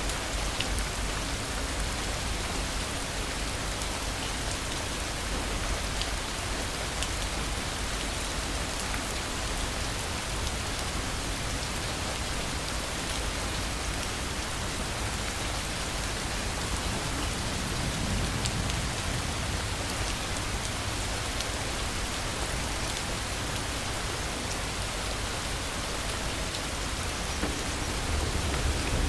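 Steady torrential rain, an even hiss of downpour, with a brief low rumble of thunder swelling about two-thirds of the way through.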